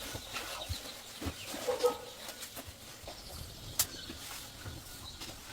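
Faint animal calls amid scattered small clicks and knocks, with one short pitched call about two seconds in and a sharp click a little before four seconds in.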